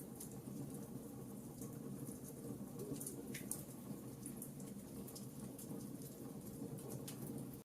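Wood fire crackling: scattered small sharp pops and snaps over a steady low rumble of burning logs.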